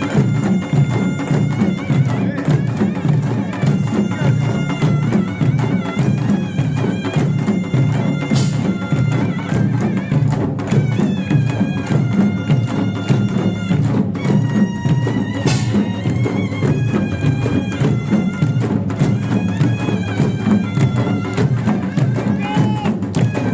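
Korean pungmul band playing: a taepyeongso shawm's reedy, wavering melody over a fast, dense beat of janggu and buk drums with kkwaenggwari and jing gongs.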